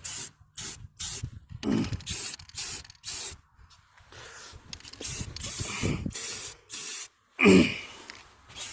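Aerosol can of Fix-All spray enamel spraying in a series of short hissing bursts, the bursts growing longer in the second half, as paint is laid thickly onto a galvanized pipe's threaded joint to keep rust off.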